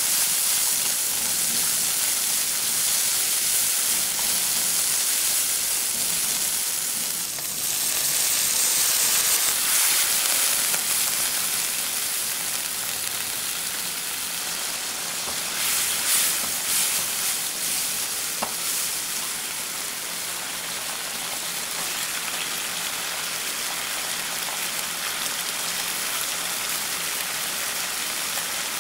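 Beef, onion and sauce sizzling steadily in a nonstick frying pan as it is stir-fried and then simmers in its sauce, with a few light knocks about halfway through.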